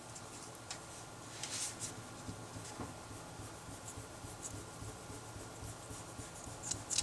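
Handwriting on paper: short, faint scratching strokes with pauses between them, a little louder about one and a half seconds in and again near the end.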